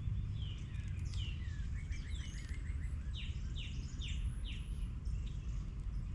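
Small songbirds singing and calling: repeated short down-slurred whistles, with a quick trill about two seconds in, over a steady low rumble.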